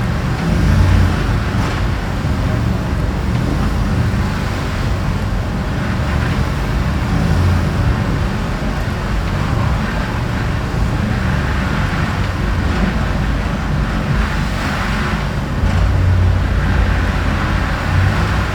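Road vehicle driving: a steady low engine and road rumble with tyre noise.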